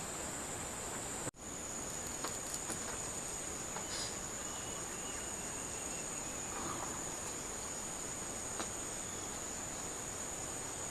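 Steady high-pitched chorus of insects, such as crickets, over an even background hiss, cutting out for an instant about a second in.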